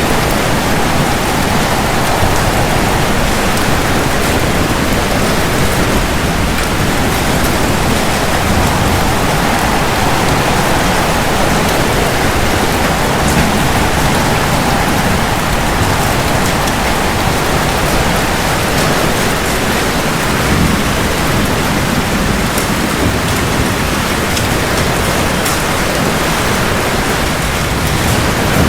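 Steady heavy rain hissing on hard surfaces, with the patter of single drops. A low rumble of thunder begins to swell at the very end.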